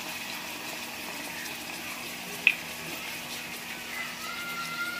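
Steady low hiss of onions, capsicum and peas frying in oil in a steel kadhai over a gas burner, with one short sharp click about halfway through.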